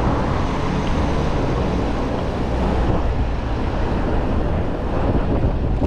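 Steady road-traffic noise heard from a moving bicycle, with a low wind rumble on the chest-mounted action camera's microphone.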